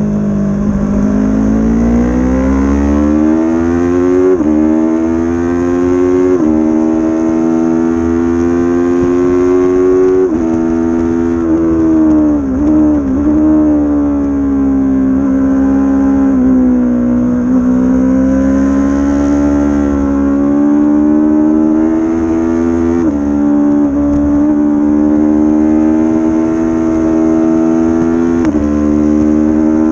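A 300cc-class race motorcycle's engine heard from on board at racing speed, revving hard with its pitch rising and falling through the corners. There are several abrupt pitch steps at gear changes and a short dip about twelve seconds in, over a steady low wind and road rumble.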